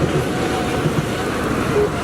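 Train running on the rails: a loud, steady rumble of wheels and track noise.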